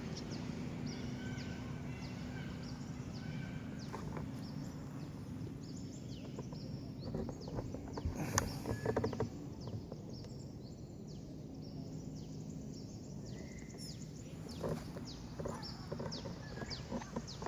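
A flock of swiftlets, the edible-nest kind, circling overhead and giving many short, high chirps that sweep downward in pitch, over a steady low hum of background noise. A brief rustling cluster of clicks comes about halfway through.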